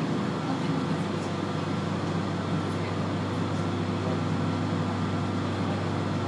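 Steady hum inside a stopped train carriage: the onboard equipment and ventilation running, with a low drone and a faint high steady tone.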